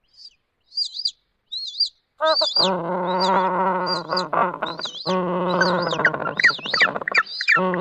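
Penguins calling: a run of short, high, wavering chirps throughout, joined by long lower-pitched calls about two and a half seconds in, again about five seconds in and near the end.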